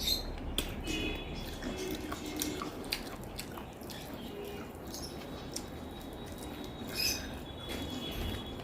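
A person chewing food close to the microphone, with irregular wet clicks and smacks of the mouth.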